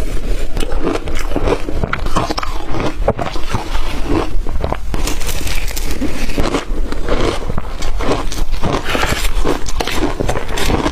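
Close-up crunching of blender-crushed ice: a person biting and chewing mouthful after mouthful, with swallowing, in quick irregular crunches.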